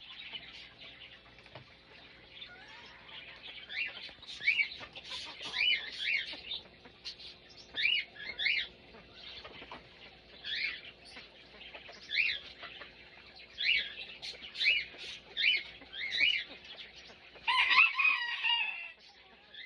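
Bird calling: short chirping calls, often in pairs, repeated every second or two, then a longer, louder call near the end.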